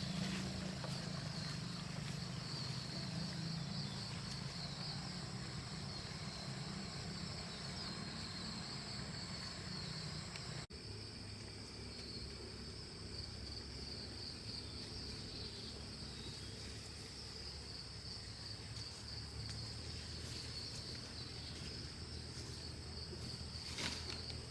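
Insects chirping steadily in a rural outdoor ambience, with a low hum underneath; the sound drops out for an instant about ten seconds in.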